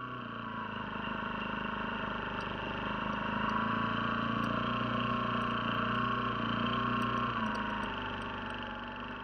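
Small engine running steadily, its pitch drifting gently up and down as the revs change, a little louder through the middle.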